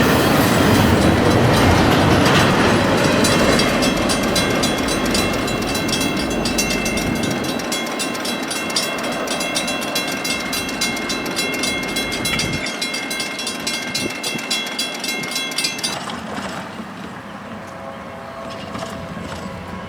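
A train rolling past, its railcars' wheels clicking over the rail joints in a quick regular patter, with a steady high-pitched ringing over it. The sound fades as the train moves on, and the clicking and ringing stop sharply near the end.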